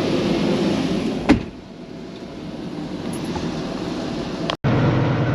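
Truck engine running, with a single sharp bang about a second in, likely the cab door shutting, after which the sound is quieter and slowly builds again. It cuts off abruptly near the end.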